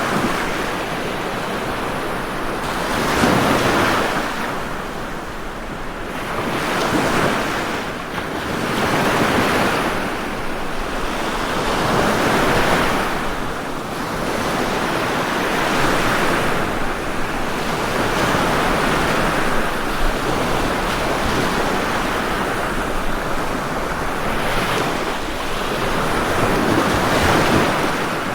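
Ocean surf: waves breaking and washing onto the shore. The steady rushing noise swells and falls back every few seconds.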